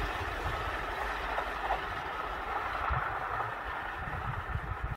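Electric train running on rails: a steady low rumble with a constant hiss of running noise, which cuts off abruptly at the end.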